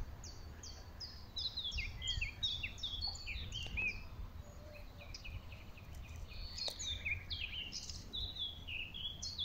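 Small songbirds singing: quick runs of short, falling chirps, busiest in the first few seconds and again near the end, over a low steady rumble.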